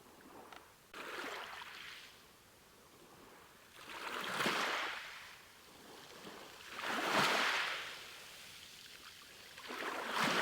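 Small sea waves washing in, each one a rushing surge of water that swells and drains away, four of them roughly three seconds apart, the strongest about halfway through and near the end.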